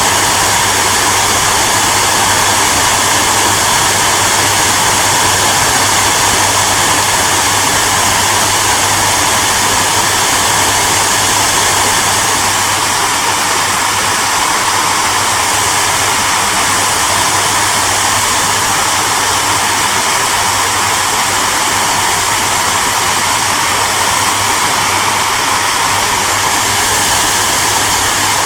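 Hair dryer running steadily: an even rush of blown air with a low motor hum underneath.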